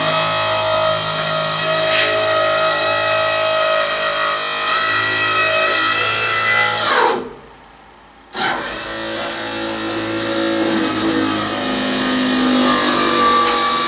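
Electric hydraulic pump motor running with a steady hum. About halfway through it winds down with a falling pitch and stops for about a second, then starts again and winds back up.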